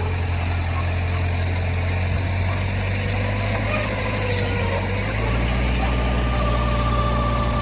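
Heavy diesel engine of earthmoving equipment running steadily, with a thin wavering whine above it. About five seconds in, the engine note steps up slightly and gets a little louder.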